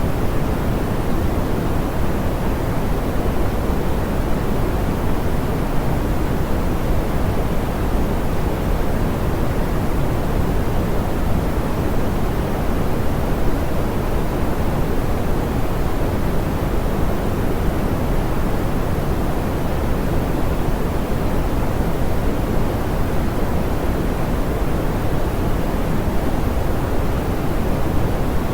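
Steady, unbroken pink noise, softened so that its energy sits mostly in the lows and the hiss falls away above a couple of kilohertz.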